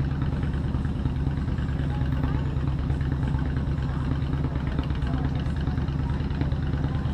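Motorcycle engine idling steadily, a low, even, pulsing note.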